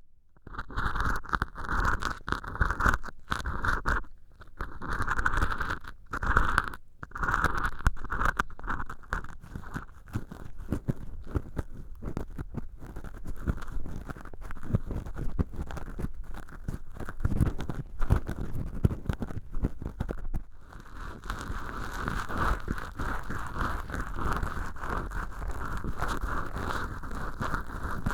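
Close-miked scratching and rustling of ear-cleaning tools scraping inside an artificial ear canal made of acrylic dish-scrubber sponge. The strokes come in separate bursts early on and become a continuous, even scratching about twenty seconds in.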